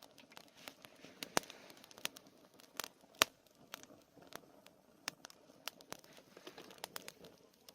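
Wood campfire crackling, with irregular sharp pops over a low hiss; the loudest pop comes about three seconds in.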